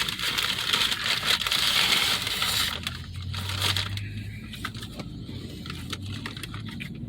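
Paper or plastic food packaging crinkling and rustling as it is handled, busiest for the first couple of seconds, then settling to a few scattered crackles and clicks over a low hum.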